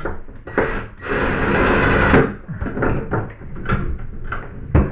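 Knocks and clatter of tools and parts being handled at a bathtub wall, with a harsh rasping noise lasting about a second near the start and a sharp knock near the end.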